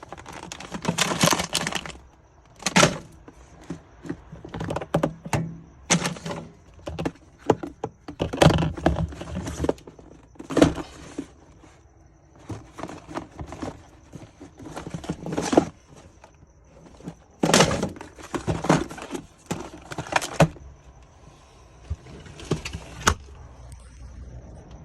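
Irregular knocks, clunks and rattles of things being handled and set down, with a faint steady high whine underneath.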